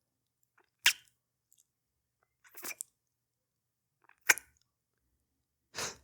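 Close-up kissing sounds from a male voice actor: four short, wet lip smacks, each separated by about a second and a half of dead silence.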